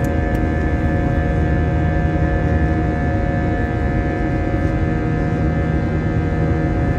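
Passenger plane's engine noise heard inside the cabin in flight: a steady drone with a low rumble and several held hum tones.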